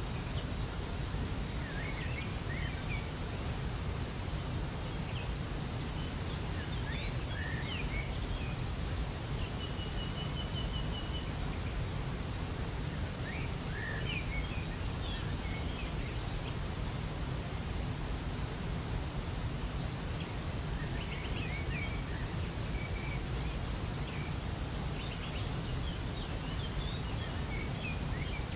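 Waterfall rushing steadily, with birds calling over it in short scattered chirps and a brief rapid trill about ten seconds in.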